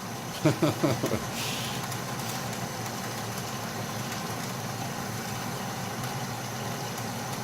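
Atlas metal lathe running steadily, its motor and drive giving an even mechanical hum while a small boring bar works an eccentric hole.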